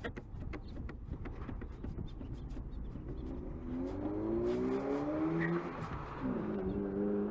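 A motor vehicle engine accelerating, its pitch rising twice in a row as if through two gears, then running at a steady pitch near the end; light clicks come before it.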